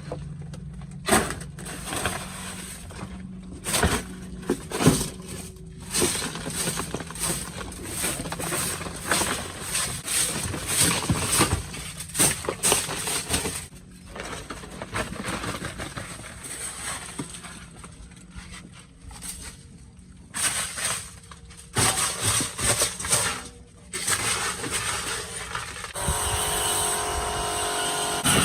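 Irregular knocks, clanks and scraping of hand-tool work on the metal of an old car body, coming in clusters with short pauses. About 26 seconds in, a steady hiss with a hum starts up.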